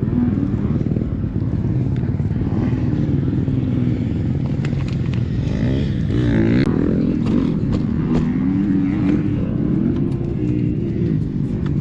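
KTM 300SX 300cc two-stroke single-cylinder dirt bike engine running under load, its pitch rising and falling repeatedly as the throttle is worked on and off.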